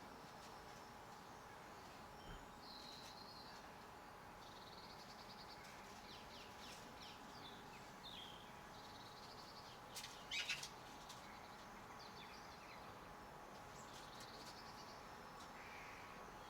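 Faint garden birds chirping and twittering, with short calls scattered throughout and a brief, louder burst of sharp notes about ten seconds in.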